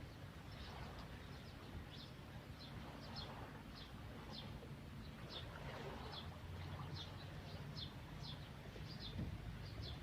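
Small birds chirping: short, high notes repeated several times a second, over a low rumble.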